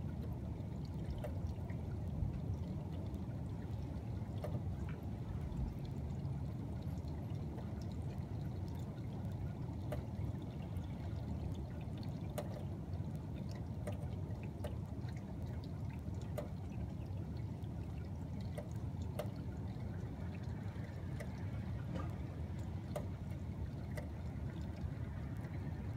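Steady heavy rain and running water, with scattered sharp ticks of drops striking nearby surfaces.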